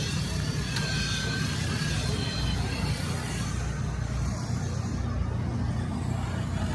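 Engines running, a steady low rumble, with a few faint higher tones in the first half.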